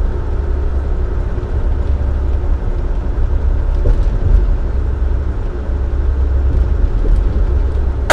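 Dump truck heard from inside the cab while cruising at highway speed: a steady low diesel engine drone mixed with road rumble, without change.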